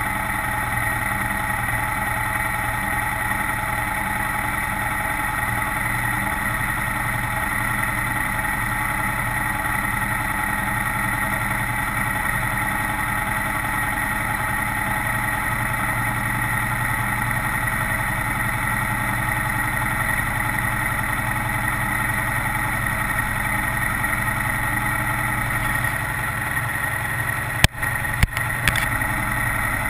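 Kawasaki Vulcan 900's V-twin engine running steadily at one even pitch. Near the end, three sharp clicks come close together.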